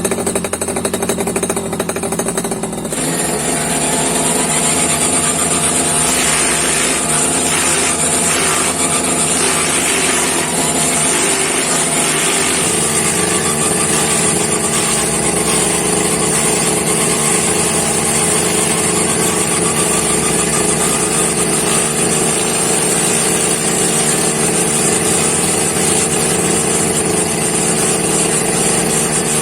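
Homemade grass chopper machine running steadily, with a dense mechanical whirring and rattling. The sound changes and gets a little louder about three seconds in.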